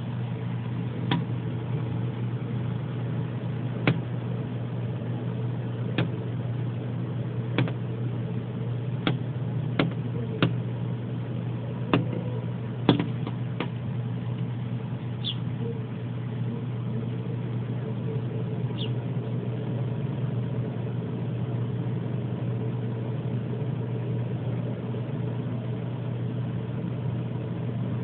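A red bird pecking with its beak, about ten sharp irregular taps over the first fourteen seconds, then two brief high chirps. A steady low mechanical hum runs underneath.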